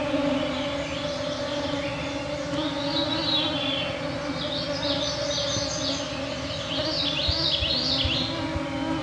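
Mosquitoes whining steadily close around the microphones, a wavering hum that never stops. Over it, songbirds sing phrases of quick, high notes, busiest in the second half.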